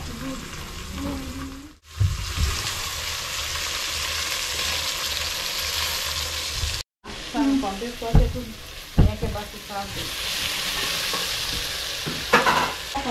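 Sliced onions frying in oil in an aluminium pot, a steady sizzle, while chopped tomatoes are added and stirred in with a wooden spoon. A few sharp knocks of utensils against the pot come in the second half, and the sizzle breaks off briefly twice.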